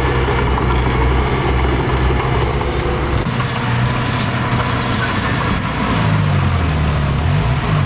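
Heavy diesel engine of earthmoving equipment running steadily under work, its note changing about three seconds in and dipping then rising again near the end as the throttle or load changes.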